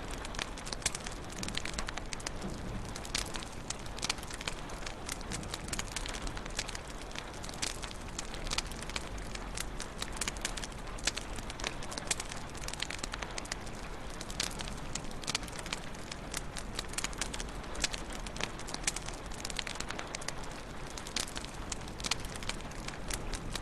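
Wood fire crackling in a fireplace: a steady low hiss with frequent sharp, irregular pops and snaps.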